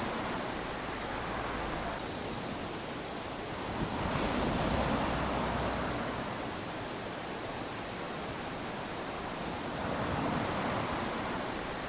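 Small waves lapping onto a sandy beach: a steady wash of surf that swells as a wave comes in about four seconds in, and again near the end.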